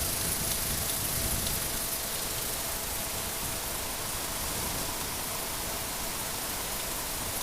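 Steady rush of wind over the rider's microphone on a KTM 1290 Super Adventure cruising at highway speed, an even hiss with a faint engine tone underneath.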